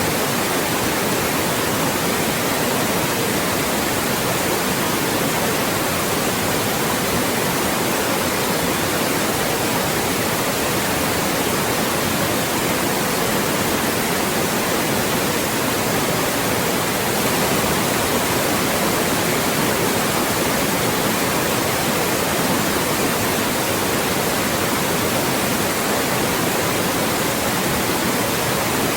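Loud, steady white noise: an even, unchanging hiss across the whole range from low to very high.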